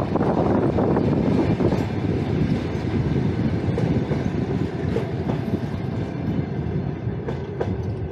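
A Russian passenger train rolling along the rails with a steady rumble that slowly fades, with a couple of sharp clicks near the end.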